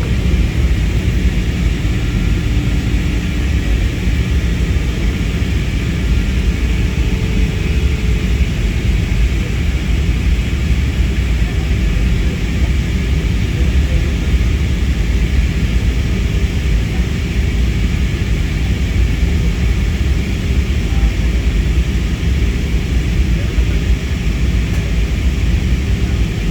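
Airliner noise during a landing: a loud, even rumble of engines and rushing air, heaviest in the low end and unchanging throughout.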